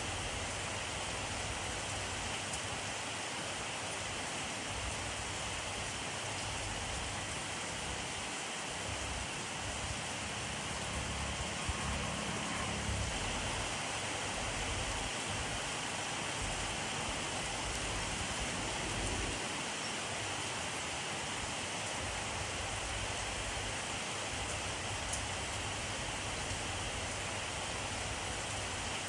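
Steady rainfall: an even hiss of rain falling on surfaces, with a faint low rumble swelling briefly near the middle.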